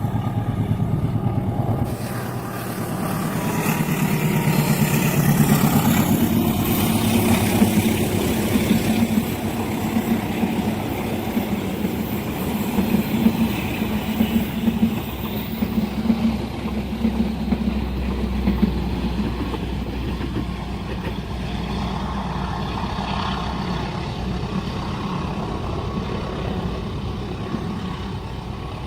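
Diesel-hauled passenger train passing at speed: its locomotive engine hums, with wheels clattering along the rails as the carriages go by, then a lower steady rumble as it moves off.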